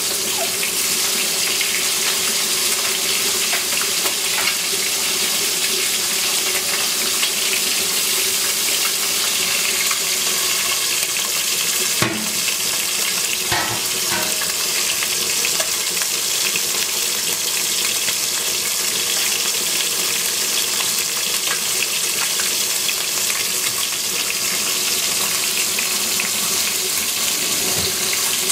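Chicken wings frying in hot oil: a steady, even sizzle, with one sharp knock about twelve seconds in.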